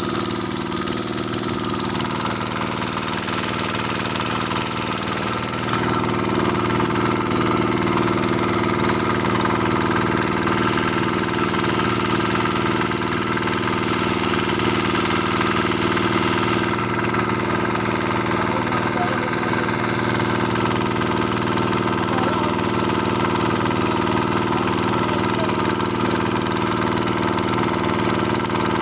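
An engine running steadily at a constant speed, getting slightly louder about six seconds in.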